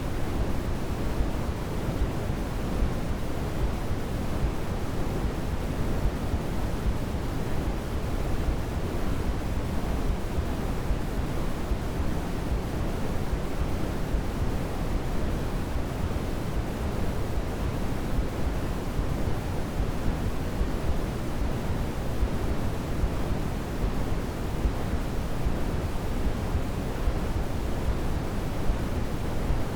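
Steady white-noise sleep sound, an even hiss that never changes, heavier in the low end than in the highs, like pink noise.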